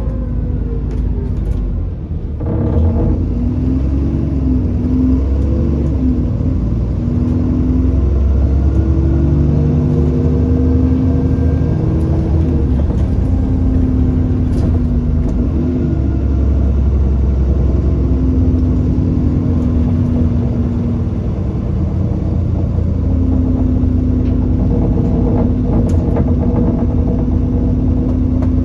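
Alexander Dennis Enviro400 Trident double-decker bus running under way: a low rumble with engine and gearbox tones that hold steady and then step to new pitches as it pulls away and changes gear. A few sharp knocks come through now and then: the knocking sound this bus is known for.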